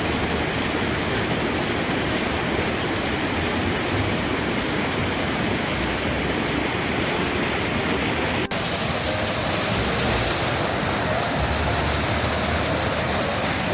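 Steady, loud rushing of water from a mountain stream or cascade, with a brief break about two-thirds of the way through.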